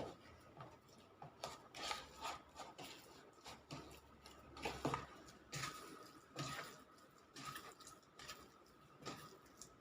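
Oiled yeast dough being kneaded and shaped into small buns by hand: soft, irregular squishing and tacky slaps, about one or two a second.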